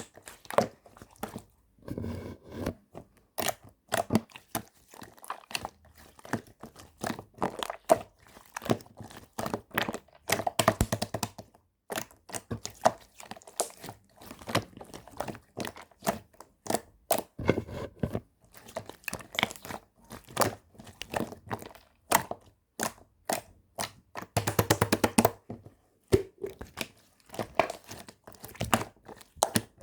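Close handling sounds: rapid, irregular crackling, clicking and crinkling, with denser clusters of crackles every several seconds.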